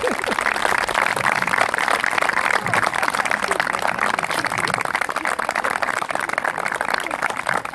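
An audience applauding steadily, with crowd voices mixed in.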